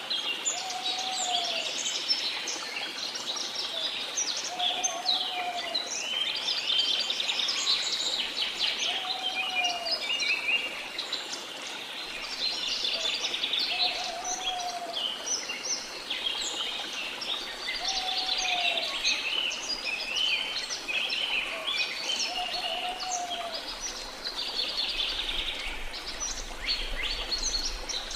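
A chorus of small songbirds chirping and twittering continuously, with a short, lower whistled note repeating about every four seconds.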